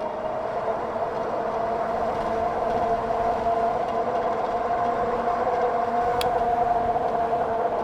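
60-volt Wired Freedom e-bike's electric motor whining at speed, a steady tone that climbs slightly, over wind and road noise. There is a short click about six seconds in.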